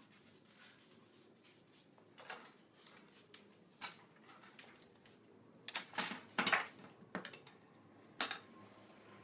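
A series of clicks, clinks and clatters of small hard objects knocking together, irregularly spaced, with a cluster of louder clatters about six seconds in and one sharp knock a little after eight seconds.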